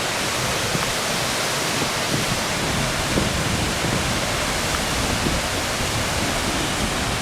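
Steady, loud rushing of a large waterfall: Fukuroda Falls, about 120 m high and 73 m wide.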